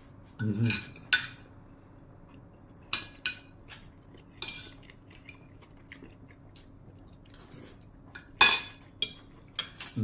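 Metal cutlery and kitchen dishes clinking: scattered short clinks and knocks of utensils against pots and plates, the loudest about eight and a half seconds in, over a faint steady hum.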